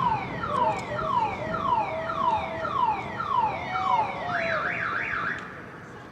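Car alarm going off: a run of falling whoops about twice a second, then a quick rising-and-falling warble, before it cuts off near the end.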